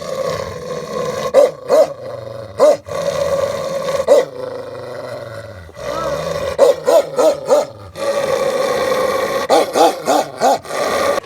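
Dog barking: single barks spaced about a second apart at first, then quick runs of three or four barks, with a steady growl-like hum between them.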